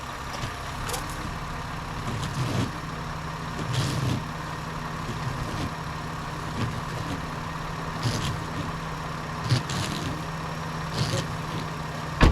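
2010 Ford Focus engine idling steadily, with several short hissing squirts of washer fluid from the windshield washer nozzles, which are spraying properly and not leaking. A few brief clicks and knocks.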